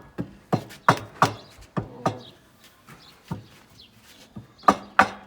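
Repeated sharp knocks, about three a second, on the parts of a masonry fireplace-barbecue, tapping a piece into place. They thin out in the middle and come faster and louder near the end.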